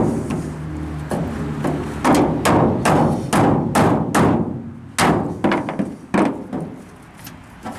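Rubber-ended hammer knocking a wooden block into place on a truck bed, a run of sharp wooden knocks about two a second that fade toward the end.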